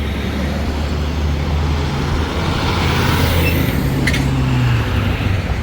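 Road vehicles, likely convoy trucks, running with a steady low engine drone, one engine note dropping slightly near the end, and a short click about four seconds in.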